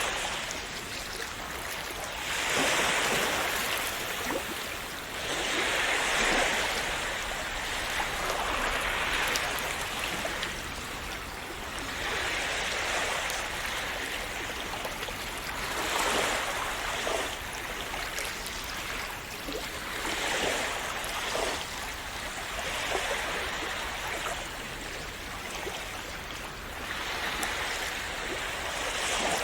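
Calm sea waves washing and splashing on a shore, each swell rising and falling about every three to four seconds.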